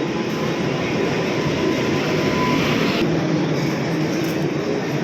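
Mumbai suburban local train running past the platform: steady noise of wheels on track, with a higher hiss that cuts off about three seconds in.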